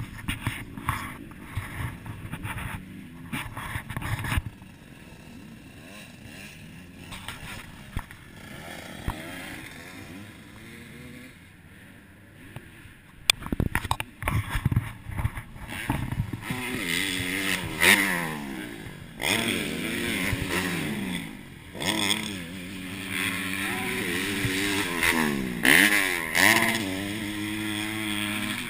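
Motocross dirt bike engine. It runs low and quieter at first, with some clatter, then from about halfway it revs up and falls back several times, its pitch rising and dropping.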